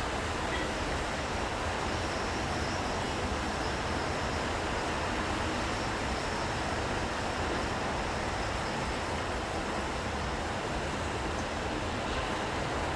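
Steady rainy city street ambience: a continuous even wash of traffic and rain noise with no distinct events.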